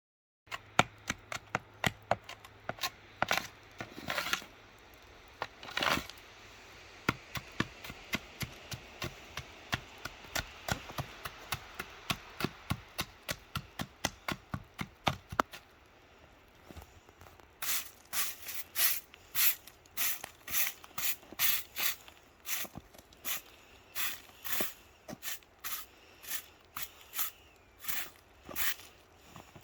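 Hand tool chipping and scraping ice off steel rails in quick, uneven strokes. From about halfway the strokes turn into longer, evenly spaced scrapes, about two a second.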